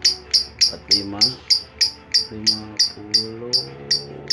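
A songbird singing a long unbroken run of the same sharp high note repeated about four times a second. Faint voices are heard underneath.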